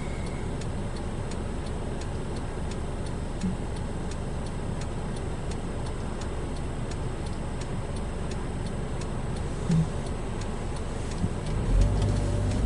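Car turn-signal indicator ticking at a steady pace, about two to three clicks a second, inside the cabin over the low rumble of the car. Near the end the low rumble grows louder.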